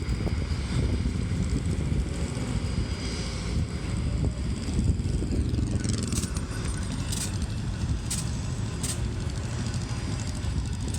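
Heavy diesel truck engine running with a steady low rumble as it pulls a semi truck stuck in soft sand, with a few sharp clicks near the middle.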